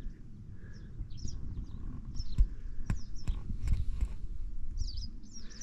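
Small birds chirping in short high calls over a steady low rumble, with a few sharp knocks near the middle.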